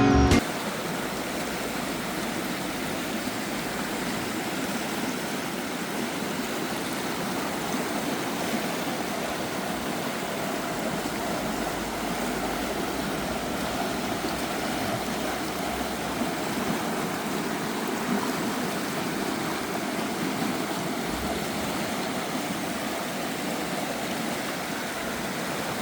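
A river running low, a steady rushing and trickling of water.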